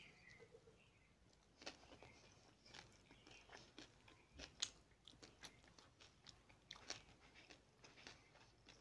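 Chewing and crunching a bite of fried tilapia, close to the microphone: faint chewing broken by irregular short crunches and clicks, a few of them sharper.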